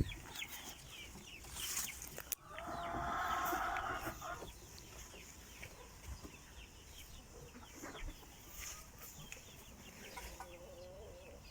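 Domestic hens clucking, with one louder, drawn-out call lasting about two seconds near the start.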